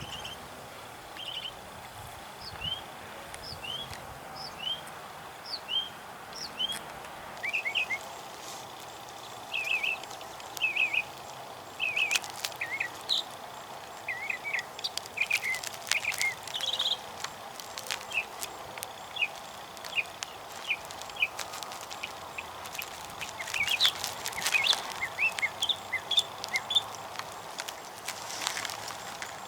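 Small birds chirping: a run of short rising chirps repeated about once or twice a second, joined by a busier mix of calls from other birds midway. A few sharp clicks are heard among them.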